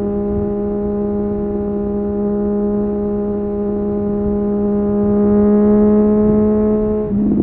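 Triumph Street Triple 765 RS's inline three-cylinder engine through an Akrapovic exhaust, cruising at steady revs. It climbs slightly in pitch and loudness, then the note drops sharply near the end.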